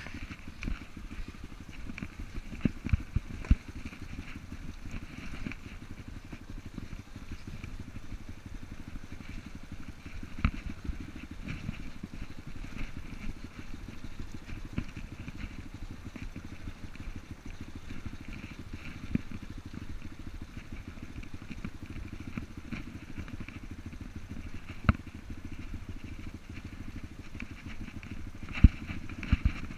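Enduro dirt bike engine running at low revs on a trail, with a few sharp knocks scattered through it.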